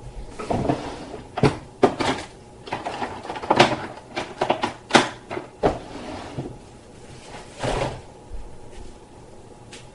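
Irregular knocks and clunks of hard objects being handled, about a dozen over the first eight seconds, then only faint background.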